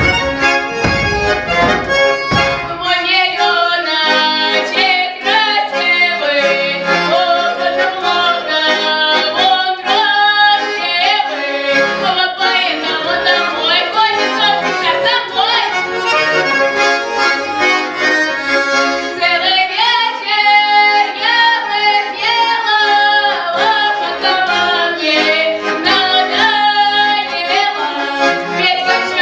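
Accordion playing a lively Russian folk tune as accompaniment to pripevki, with a woman singing along.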